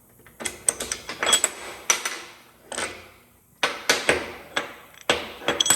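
Steel pieces clanking and clinking against each other and a metal surface as they are handled and set in place: a dozen or so sharp, irregular knocks, some with a brief metallic ring.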